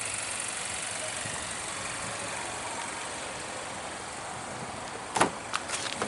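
Buick Cascada's 1.6-litre four-cylinder engine idling steadily, with one sharp click about five seconds in followed by a few lighter clicks.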